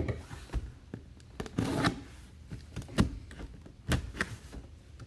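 Hands handling packaging and collectibles: a short rustle of packaging with scattered sharp clicks and light knocks, one distinct click about three seconds in.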